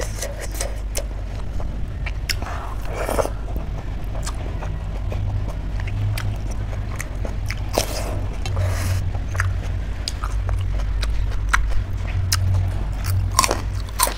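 Close-miked mukbang eating sounds: chewing and biting with many short wet mouth clicks, over a steady low hum.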